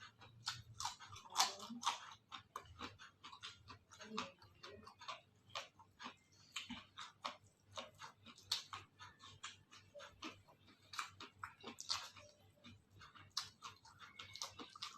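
Close-up eating sounds: food being chewed with many sharp, irregular crunchy clicks and mouth noises, several a second.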